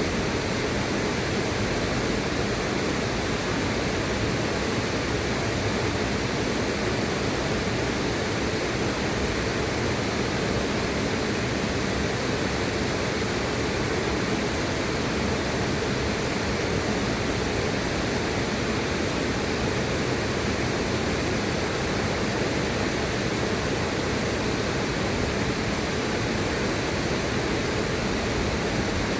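Steady rushing of river water, an even noise without breaks or distinct splashes, heaviest in the low range.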